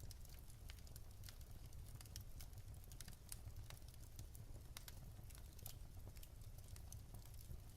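Wood logs burning in a fireplace, crackling with irregular sharp snaps and pops over a low steady rumble.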